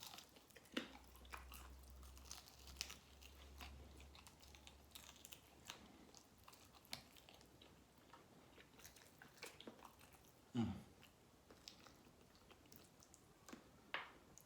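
Quiet chewing and biting of chicken wings, with scattered small crunches and clicks from teeth on meat and bone. About ten and a half seconds in there is one brief, louder low sound that drops in pitch.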